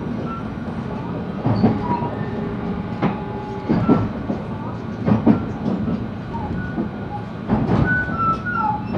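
JR West 223 series electric train running, heard inside the motor car: a steady rumble with the wheels clacking over rail joints several times.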